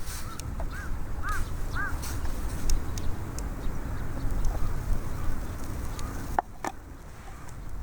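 A bird calls four times in quick succession in the first two seconds: short, arched calls. Under them is a steady low rumble of wind on the microphone, with a few light clicks and two sharp knocks near the end.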